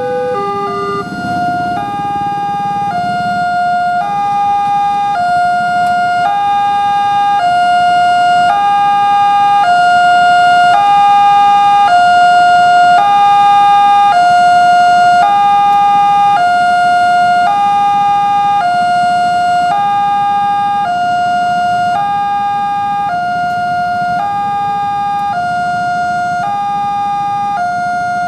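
Railway level-crossing warning alarm sounding a steady two-tone electronic ding-dong, high and low tones alternating about once a second. A lower-pitched pair of tones stops about a second in.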